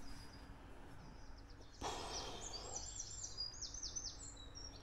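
A small songbird singing a quick run of high, falling notes, starting about two seconds in just after a brief burst of noise.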